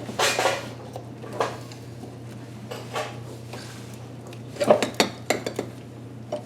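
Metal hand tools clinking and clattering: a ratchet and socket extension being handled and fitted. A short scraping clatter at the start, a couple of single clicks, then a quick run of sharp clinks near the end.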